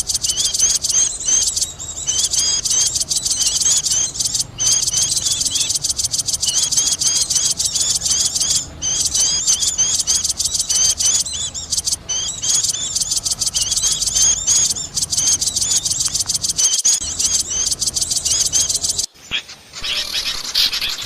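Bird-luring recording of small songbirds chattering noisily: a dense, rapid run of high-pitched chirps with no let-up. It breaks off abruptly about nineteen seconds in, then the chirping starts again.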